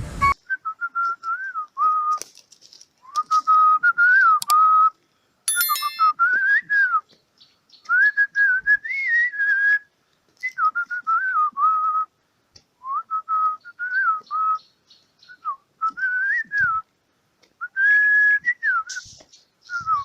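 A person whistling a tune unaccompanied, in short melodic phrases with small pitch bends and pauses between them.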